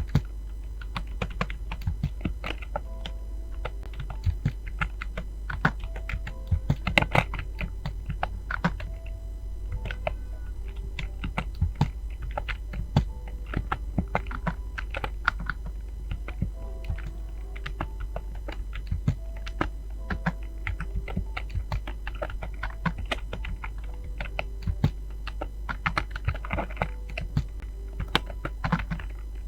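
Fast, continuous typing on a computer keyboard: a dense, irregular run of keystroke clicks with a few louder key hits.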